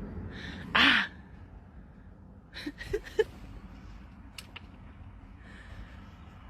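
A cockatoo gives one short, harsh screech about a second in, followed around three seconds in by a few quick clicks and small squawk-like blips.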